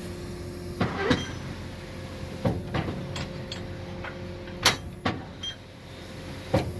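Tractor and large square baler running steadily, with a string of sharp metallic clanks at irregular intervals, the loudest about two-thirds of the way through, as the baler's ejector pushes the last bales out of the chamber.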